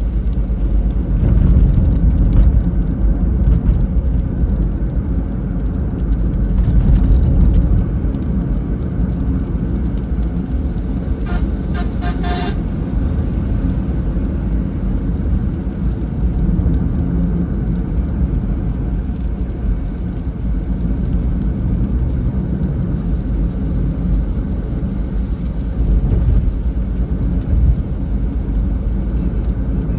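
Car driving on a wet road in rain: a steady low rumble of road and engine noise. About eleven seconds in, a short run of rapid pulsed tones lasts a second or so.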